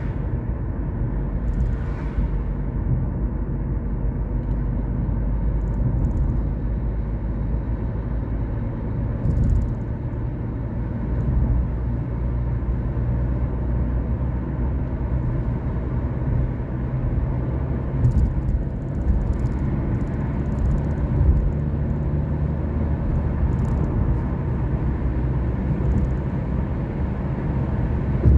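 Car engine running steadily with a low rumble of engine and road noise, with a few faint clicks.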